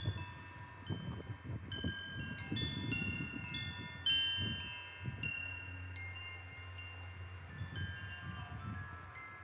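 Wind chimes ringing irregularly as the wind knocks them, several high tones overlapping and sustaining, busiest in the first half. Gusts of wind rumble low on the microphone underneath.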